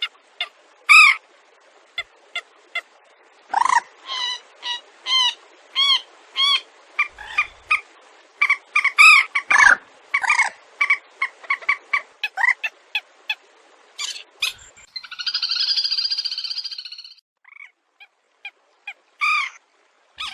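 Playback recording of wetland bird calls used as a netting lure, the swamphen, snipe and waterhen kinds named in the title: a rapid string of short, sharp calls, some sweeping in pitch, with one longer buzzy call about three-quarters of the way through.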